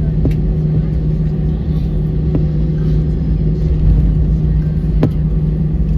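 Steady low rumble inside an Airbus A320 cabin while it taxis after landing, with a steady hum and three short sharp knocks.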